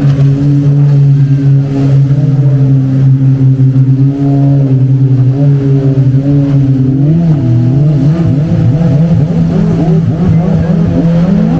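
A motor engine running with a steady hum, then rising and falling in pitch from about seven seconds in as it revs up and down.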